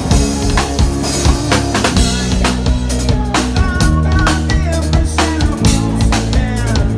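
Rock band playing: a drum kit keeps a steady beat with bass drum, snare and rimshots under held bass notes, and higher instrument lines bend in pitch near the middle and again near the end.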